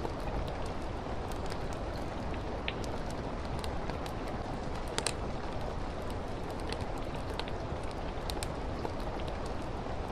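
Steady rain with scattered sharp crackles and pops from a wood fire in a fireplace, a double pop about halfway through the loudest.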